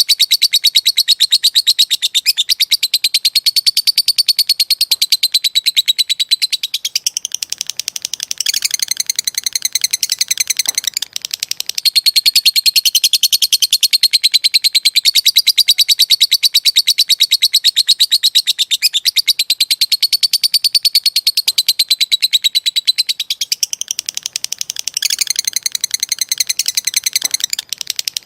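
Lovebird singing its long 'ngekek' chatter: a very fast, high-pitched rattling trill that runs on for many seconds, broken by a few short pauses.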